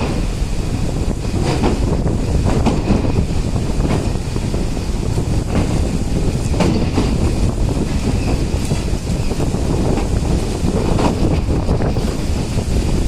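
Train running on the rails, heard from on board, with wind buffeting the microphone and a few scattered clanks from the wheels.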